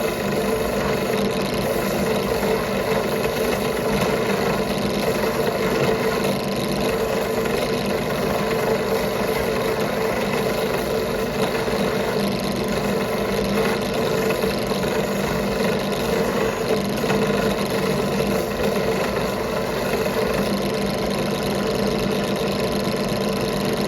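A motor-driven machine running steadily, a constant hum and whir that holds one speed throughout.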